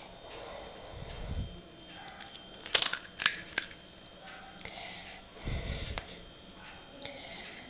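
Sharp crisp cracks, three in quick succession about three seconds in, with softer low thumps before and after: crisp pani puri shells being cracked open and handled.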